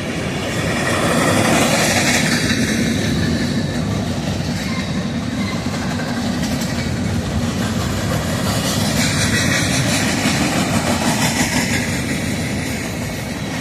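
Southbound freight train passing close by at speed: a loud, steady rumble and rattle of wheels on rails with clickety-clack from the passing cars.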